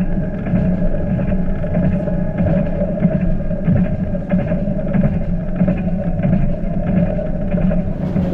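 Steady running drone of a diesel passenger train heard from inside the carriage: a constant low engine hum with a steady higher tone over it.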